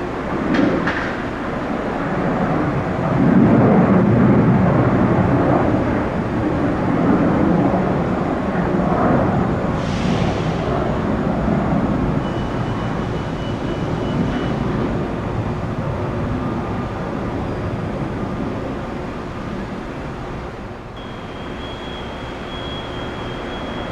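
Jet airliner engines at high power, a broad rushing noise that is loudest a few seconds in and slowly eases off, with low wind rumble on the microphone; a thin high whine joins near the end.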